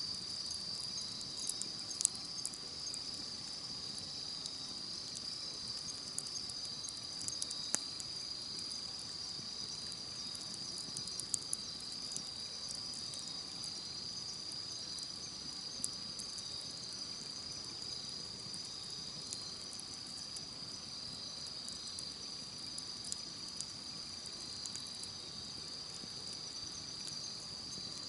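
Campfire crackling with scattered sharp pops, over a steady high-pitched chorus of insects such as crickets.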